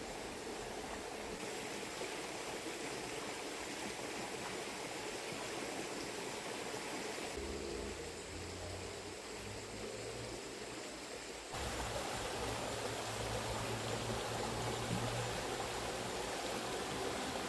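River water running, a steady rushing hiss that shifts abruptly in level and tone about seven and again about eleven seconds in.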